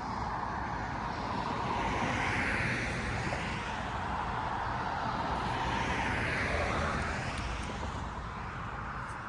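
Traffic noise from passing vehicles: a steady rushing that swells twice and fades near the end.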